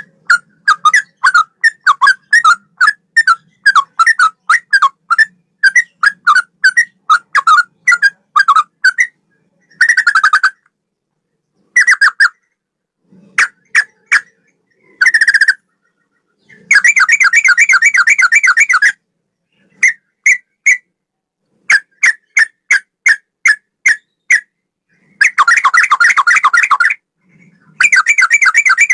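Yellow-vented bulbul (trucukan) singing: a run of short clear whistled notes, two or three a second, then bursts of rapid trilled phrases, the longest near the middle and near the end, in the bubbling style of a straw-headed bulbul (cucak rowo).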